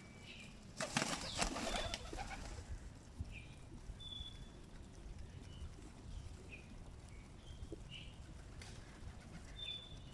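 Pigeon wings flapping in a loud burst about a second in, lasting a second or two, followed by scattered short, high bird chirps.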